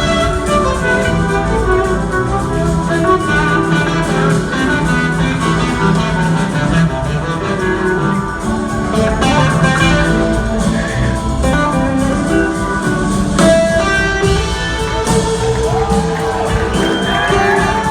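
Live blues-rock band playing an instrumental passage, electric guitar out front over bass and drums. Near the end the guitar line glides up and down in pitch.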